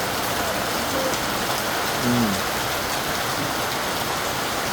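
Steady rain falling on a house roof, an even, unbroken patter of drops.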